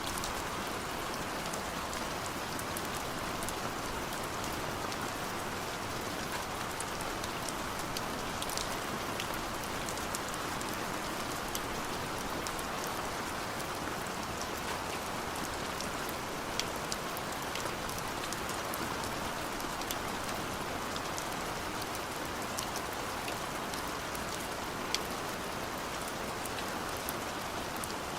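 Steady rain falling, an even hiss with scattered sharp drops pattering.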